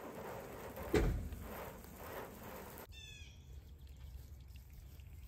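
A single thump about a second in, over a rushing background that cuts off abruptly partway through. Just after the cut, a bird gives a brief chirp of a few quick falling notes against quiet outdoor background.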